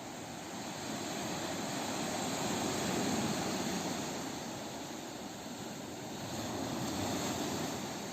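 Ocean surf washing on a beach: a steady rush of waves that swells twice, about three seconds in and again near the end.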